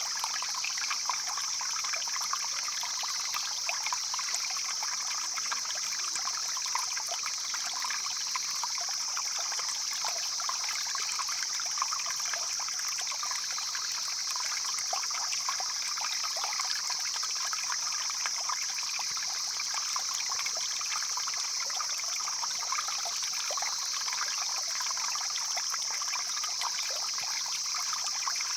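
Stream flowing steadily, its water trickling, with a steady high-pitched hiss over it.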